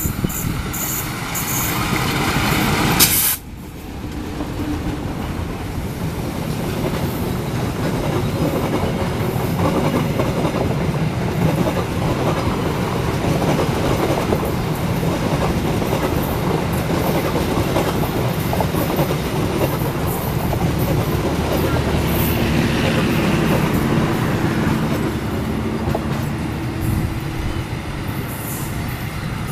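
Diesel-hauled passenger train passing close by: for the first three seconds the approaching locomotive sounds its horn, then it breaks off. A long steady rumble and rattle of the coaches' wheels running over the rails follows.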